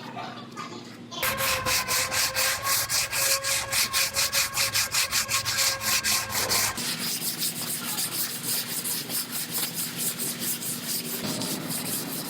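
Sanding body filler on a car's quarter panel in quick, even strokes. It starts about a second in, loud, and eases to a quieter sanding at about seven seconds.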